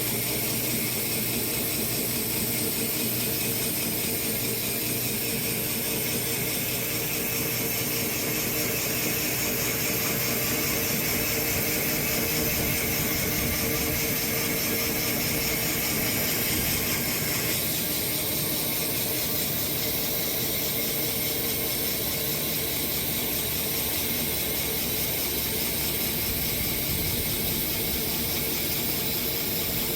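Sawmill running steadily, its blade cutting through a walnut log; the sound shifts slightly about seventeen seconds in.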